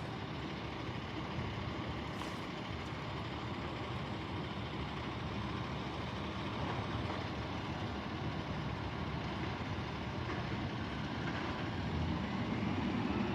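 Garbage truck engine running steadily, growing a little louder near the end.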